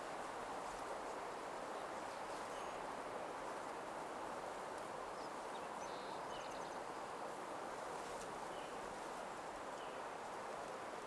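Soft nature ambience: an even, steady rushing hiss with a few faint, brief bird chirps scattered through the middle.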